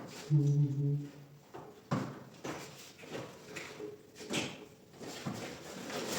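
A series of sharp knocks and clicks about a second apart, from objects being handled. A short voice-like sound comes about half a second in.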